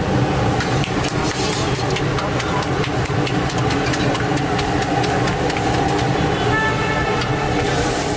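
A steady mechanical hum of even, layered pitches runs under light, irregular slaps and clicks of bhatura dough being patted flat between the hands. Near the end, hot oil in a large iron kadai starts to sizzle as the bhatura goes in to fry.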